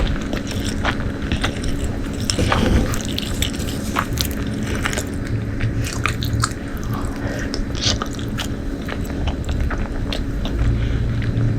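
Close-miked eating: a mouthful of food being bitten and chewed, with many small irregular wet clicks and squishes.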